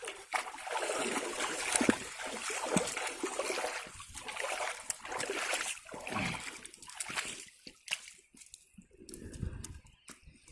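Water splashing and sloshing in irregular bursts, with sharp splashes, dying down near the end.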